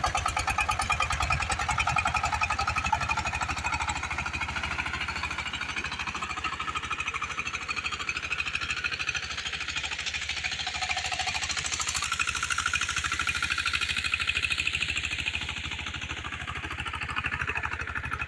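Power tiller's diesel engine running after starting, a fast, even chugging of firing strokes that eases off a little near the end.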